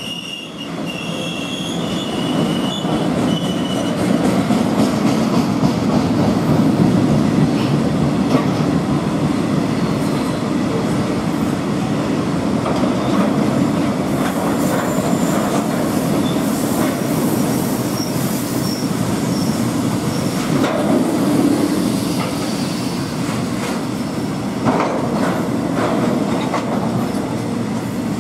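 Bogie oil tank wagons (BTO) of a freight train rolling past, a steady rumble of steel wheels on rail. A thin, high wheel squeal rings over it for the first few seconds, and a few sharp clacks come near the end.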